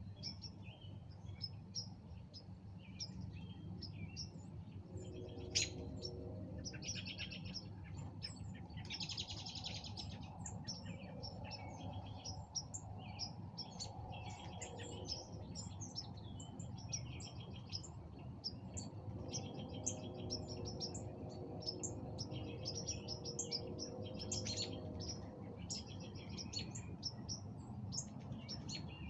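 Several birds chirping and singing at dusk, with many short chirps and a few rapid trills over a steady low background hum. A single sharp click comes about five and a half seconds in.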